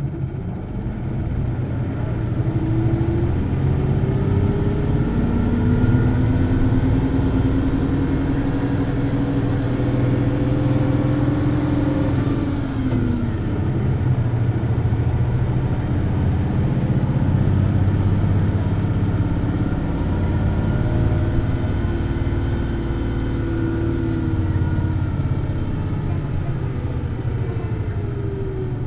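Hino Blue Ribbon City Hybrid bus's diesel-hybrid drivetrain running hard at high revs while pulling away, the engine note climbing steadily. About twelve seconds in the revs drop as the gear changes, then climb again before easing off near the end. A faint high whine rises and falls with them.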